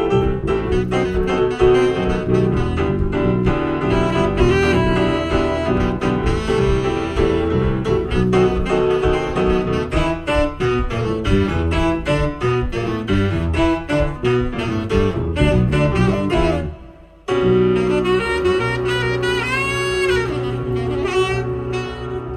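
Live jazz-style band music: a saxophone leads over piano and double bass with a steady beat. The band stops suddenly about seventeen seconds in, then comes back on a held chord while the saxophone bends its notes up and down.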